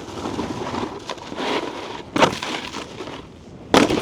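Snowboard sliding and scraping over icy, crusty snow, a steady rough hiss, broken by a sharp knock about two seconds in and another just before the end.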